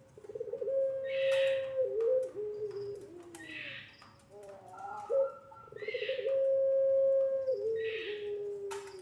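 Puter pelung, the long-voiced Indonesian breed of ringneck dove, cooing: two long calls, each a held steady note that drops in steps to a lower, wavering tail, the second starting about five seconds in.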